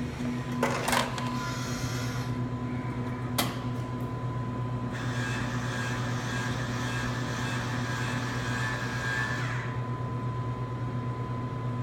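Coffee vending machine working on a selection: two sharp clunks in the first few seconds, then a motor whirring for about five seconds, over a steady electrical hum.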